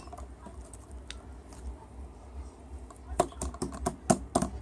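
Sharp clicks and taps, a few scattered ones at first, then a quick run of them from about three seconds in, over a steady low hum.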